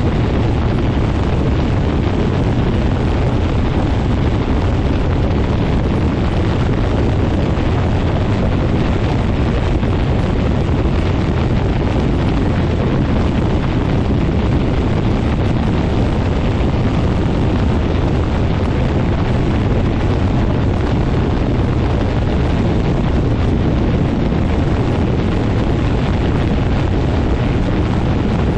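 Quicksilver MX ultralight float plane's engine and propeller running steadily, with prop blast buffeting the microphone as a loud, even rumble.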